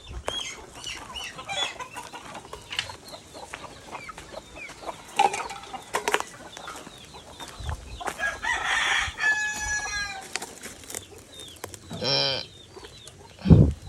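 Chickens clucking and calling, with many short high chirps, a longer drawn-out call about nine to ten seconds in, and a loud call near the end.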